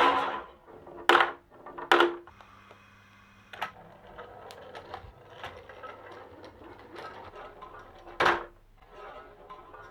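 Marbles running down a wooden marble run: light clicking and rolling, broken by three loud knocks, about a second in, two seconds in and near the end, each leaving a short low ringing tone.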